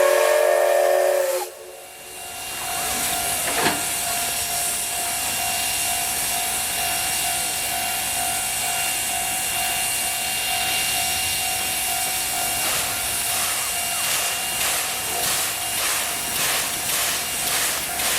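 CK124 steam locomotive's whistle sounding a chord of several tones, cutting off about a second and a half in, followed by a steady loud hiss of steam. Past the middle, regular exhaust chuffs start up at about two a second as the locomotive gets under way.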